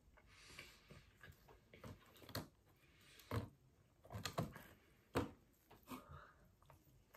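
Close-up eating sounds: a mouthful of garlic bread being chewed, with a string of short, sharp mouth clicks and smacks, the loudest a little past halfway.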